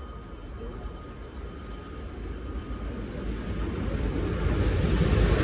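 FS E494 electric locomotive approaching on the line, its low rumble and rail noise growing steadily louder.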